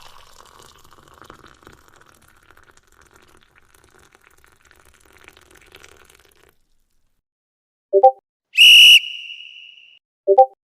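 Sound-effect clips played in sequence: a faint hiss for the first six seconds or so, then a short pitched blip, then a loud, shrill whistle blast a little past eight seconds that fades out over about a second, followed by another short blip.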